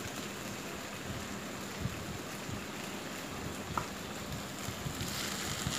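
Onion, tomato and capsicum masala frying in oil in a kadai: a steady sizzle, with a couple of faint clicks.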